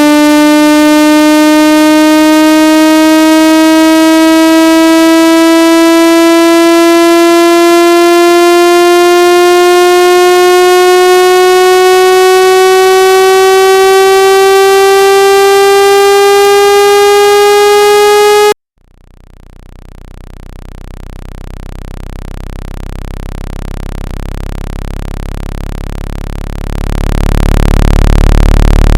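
Synthesized water-ejection tone for clearing a phone speaker: a loud buzzy tone slowly rising in pitch, which cuts off suddenly about two-thirds of the way in. A low hum then fades in and swells, jumping louder near the end.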